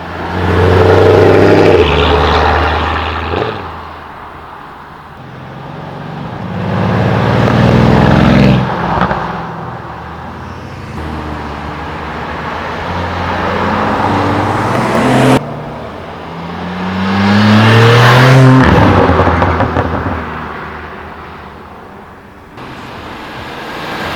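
Modified tuner cars accelerating past one after another, their engines revving up in rising pitch as each one goes by. The loudest passes come about a second in, near the middle and a few seconds later. Between cars the sound changes abruptly.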